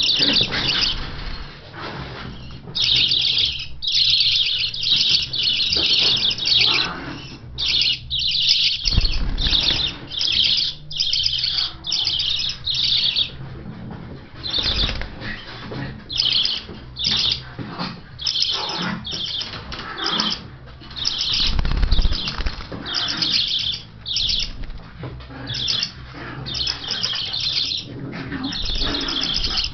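Young hand-reared budgerigars chirping and chattering in rapid short bursts with brief pauses between them, with wings flapping in flight.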